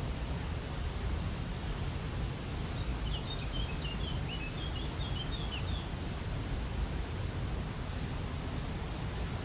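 Waterfall rushing as a steady roar of water, with a small bird twittering a quick series of short high chirps for about three seconds in the middle.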